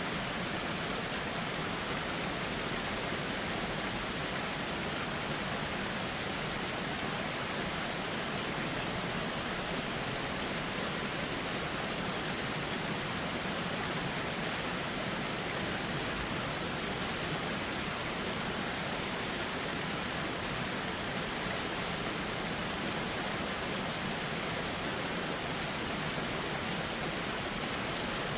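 A river flowing steadily: an unbroken rush of water.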